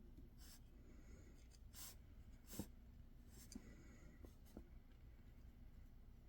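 Faint writing on paper: a handful of short pen scratches, with a light tap about two and a half seconds in.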